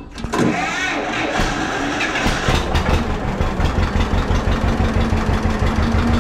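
John Deere 4055 tractor's diesel engine cranked on the starter for about two seconds, then catching and settling into a steady idle.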